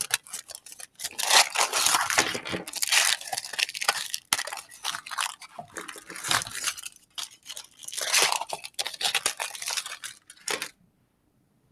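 Candy wrappers crinkling and being torn open in irregular crackling bursts, which cut off suddenly near the end.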